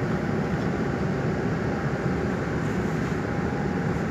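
Steady low rumble of a running vehicle, with a faint steady whine above it.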